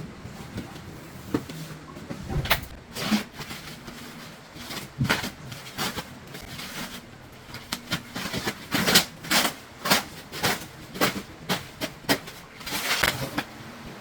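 Irregular clicks, knocks and short rustles, as of things being handled, coming thicker in the second half, over a faint low hum.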